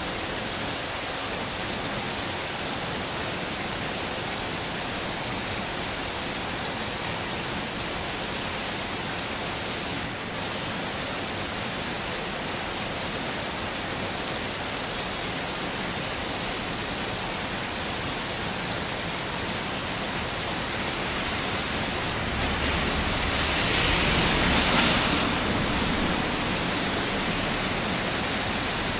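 Steady heavy rain, an even hiss, which cuts out for an instant twice. Near the end it swells louder for a few seconds, with a low rumble beneath.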